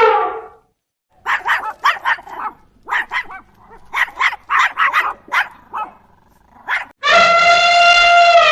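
A dog barking in a quick run of short barks, between two long, steady, horn-like calls that drop in pitch as they end.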